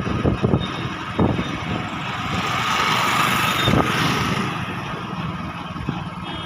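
A vehicle passing on the road, its rushing noise swelling about three seconds in and then fading.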